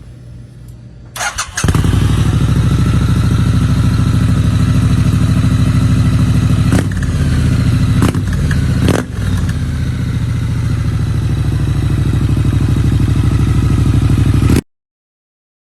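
Cold start of a 2022 Triumph Street Scrambler's 900cc parallel-twin engine through an aftermarket Zara full exhaust: a brief starter crank about a second in, then the engine catches and idles steadily. Three short bursts break the idle in the middle, and the sound cuts off abruptly near the end.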